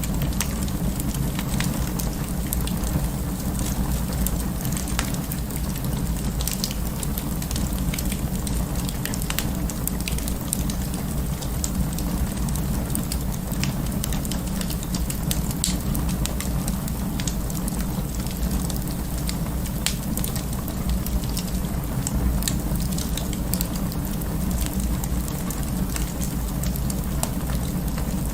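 Wood fire burning in an open fireplace, crackling steadily with many irregular sharp pops over a low rumble of the flames.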